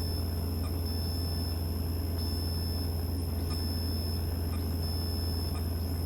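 Cessna 172's engine and propeller in cruise, a steady low drone heard from inside the cabin, with a faint high whine over it.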